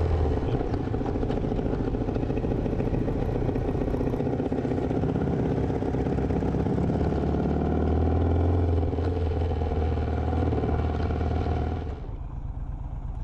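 Motorcycle V-twin engine running at low speed as the bike turns in and rolls through a lot, its note rising and easing slightly. About twelve seconds in the engine sound drops away sharply to a low rumble.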